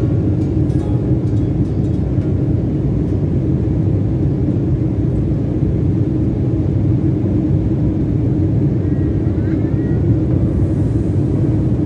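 Airliner noise heard from inside the cabin: a steady low rumble of engines and airflow.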